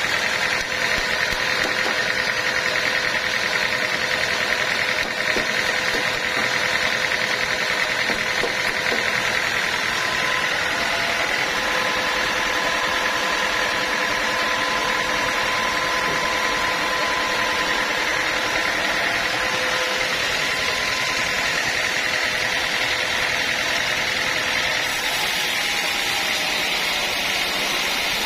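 Sawmill machinery running steadily: engine noise with a constant high whine.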